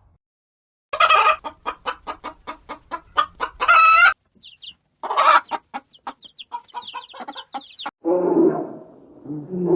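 Chickens clucking in quick runs of clucks, with a few thin chirps mixed in. Near the end a lower, drawn-out animal roar begins.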